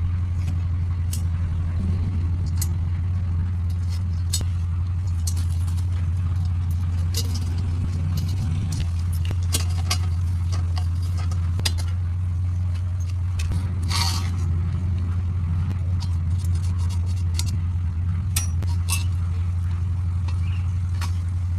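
A steady low hum with scattered light clicks and taps throughout, and one longer scrape about fourteen seconds in.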